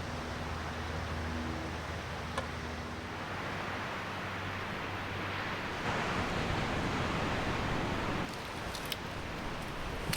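Steady rush of outdoor noise with a few light clicks, growing louder for about two seconds past the middle and then dropping back.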